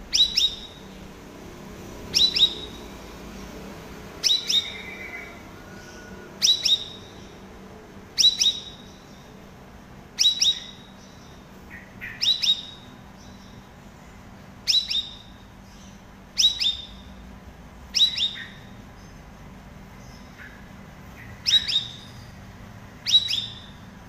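Caged cucak rawis calling in short, sharp, high chirps about every two seconds, each call a quick double note.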